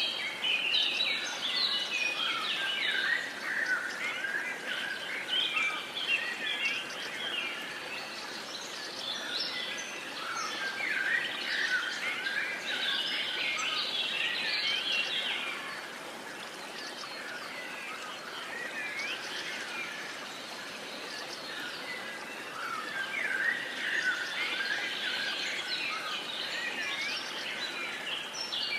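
Many birds chirping and trilling together in a dense chorus over a steady background hiss; the chorus thins out for a while around the middle, then builds again.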